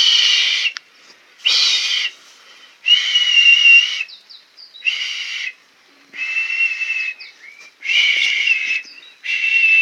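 A person whistling loudly by mouth, tongue raised, in seven separate short blasts, each held on one high, shrill pitch with a breathy hiss around it.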